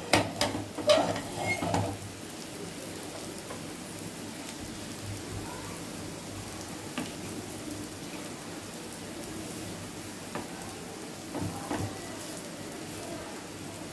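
Vegetable omelet frying in shallow oil in a flat pan, a steady sizzle. A wooden spatula scrapes and knocks against the pan in the first two seconds and again briefly near the end as the omelet is folded.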